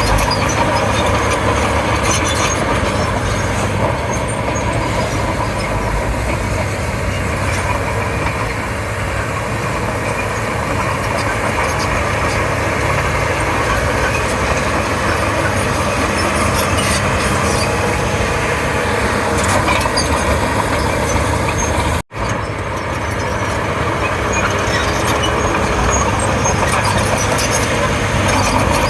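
Crawler bulldozer at work: its diesel engine runs steadily, with scattered clicks and knocks, and the sound breaks off for an instant about three-quarters of the way through.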